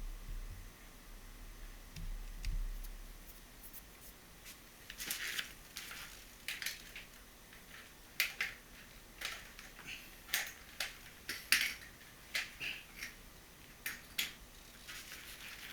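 Hand repair work: a series of short, crisp, scratchy sounds, roughly one a second, starting about five seconds in over a faint steady background.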